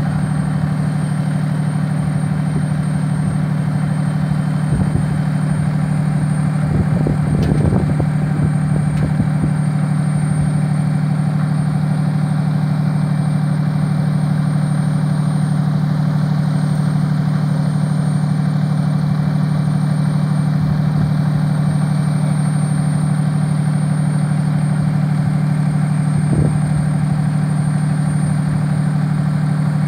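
Fire department ladder truck's diesel engine running steadily at idle, a constant low hum, with a few brief knocks partway through.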